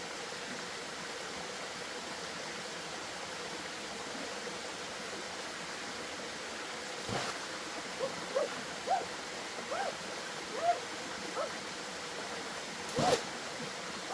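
Steady rush of running water. In the second half come a string of short gurgling plops and two sudden sharp sounds, the second and louder one near the end.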